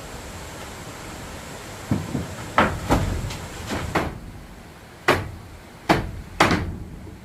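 A run of about eight sharp, irregularly spaced wooden knocks and thuds, starting about two seconds in, the last three the loudest, as pieces of wood are set down or struck during work on a wooden bed.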